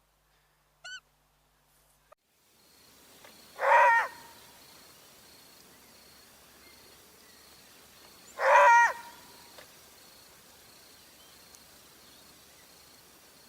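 A large bird calling twice, two loud pitched calls of about half a second each, some four and a half seconds apart, over a faint steady outdoor background. Near the start there is one short faint high chirp.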